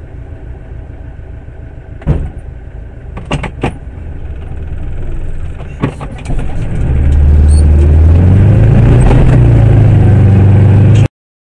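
Car engine and road noise heard from inside the cabin: a steady low rumble with a few sharp knocks, then much louder from about seven seconds in as the car pulls away and gathers speed.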